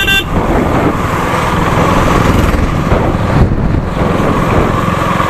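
A vehicle's engine running with heavy wind and road noise while travelling along the road. A short horn toot ends just as the sound begins.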